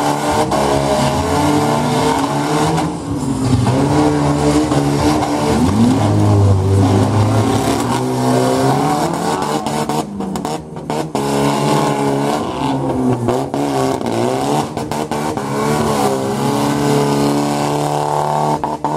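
Demolition derby cars' engines revving hard as the wrecked cars ram and push against each other, the pitch rising and falling again and again.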